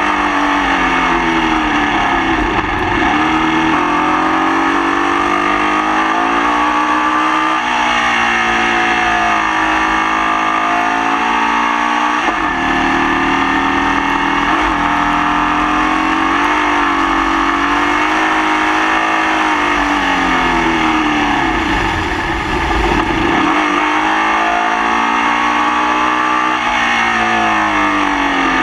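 Formula Vee race car's air-cooled Volkswagen flat-four engine at racing speed, the revs dropping into corners and climbing back up again about six times. The engine is running with a misfire.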